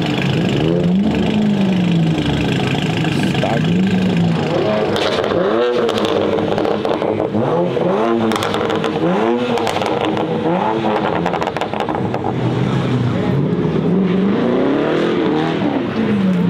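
A car engine revving up and falling back again and again as a car is driven hard in a drift, the pitch rising and dropping about eight times.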